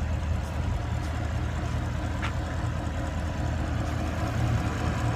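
Porsche Panamera Turbo's 4.8-litre twin-turbo V8 idling steadily, a low even hum, with a faint click about two seconds in.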